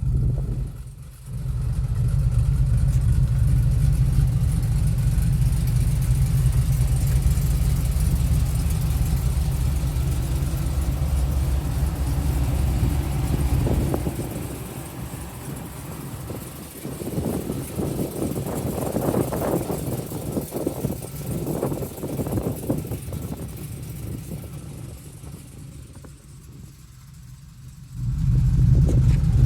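Cammed 5.3-litre V8 of a 2000 GMC Yukon with an LS6 cam, headers and a stainless catback exhaust, running. It holds a loud, steady rumble for the first dozen seconds, goes quieter for about fourteen seconds with uneven swells, and is loud again near the end.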